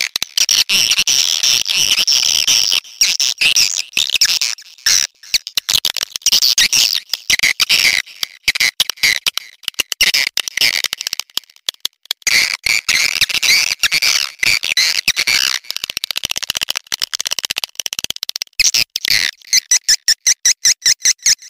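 Swiftlets' mating and calling chatter: dense, rapid, high-pitched twittering and clicking with a few short breaks. It turns into a fast, even pulsing near the end.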